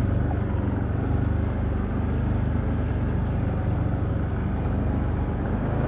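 Can-Am Outlander ATV engine running steadily under way, a low drone that shifts slightly in pitch a couple of times.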